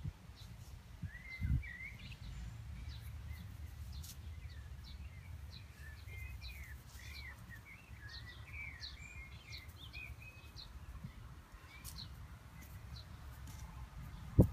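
Birds chirping and calling with many short rising and falling notes, over a steady low rumble, with a single thump about a second and a half in.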